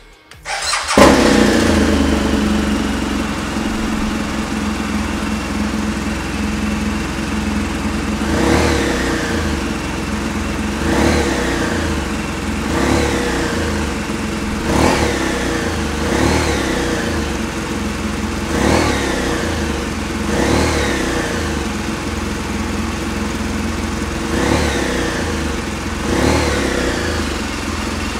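2013 BMW R1200GS boxer flat-twin engine starting about a second in and settling to idle. From about eight seconds in it is blipped with short throttle revs roughly every two seconds, each rising and dropping back to idle.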